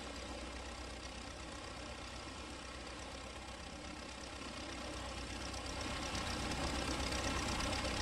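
Small propeller plane's engine running steadily after landing, a cartoon sound effect; it grows somewhat louder over the last few seconds.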